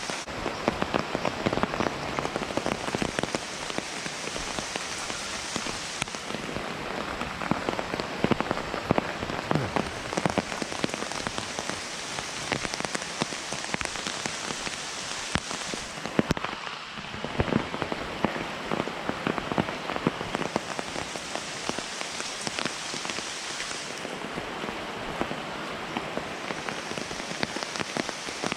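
Heavy rain falling steadily: a dense hiss of drops, with many sharp individual drop hits standing out.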